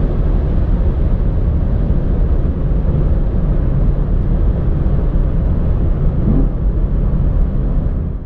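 Sports car engine and exhaust running hard with a loud, steady low rumble, cut off abruptly at the end.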